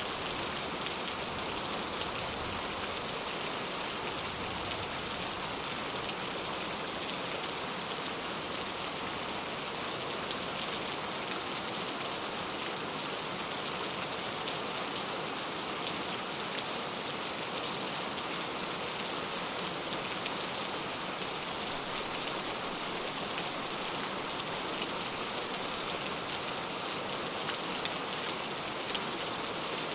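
Steady rain falling: a dense, even wash of drops with fine individual drop ticks throughout.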